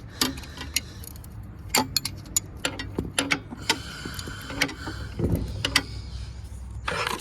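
Sharp metallic clicks and taps, irregular and about every half second, from a hand wrench working a bolt on the machine.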